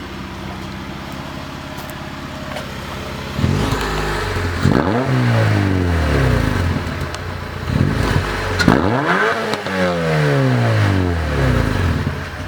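Honda Prelude's B21 four-cylinder engine idling steadily, then revved up and let fall back to idle twice, with a short blip between the two revs.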